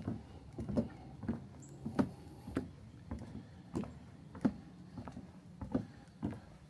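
Footsteps of a hiker walking at a steady pace: short taps about two a second.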